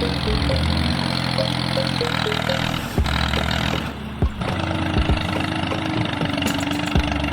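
Engine running steadily, with a few sharp knocks scattered through it.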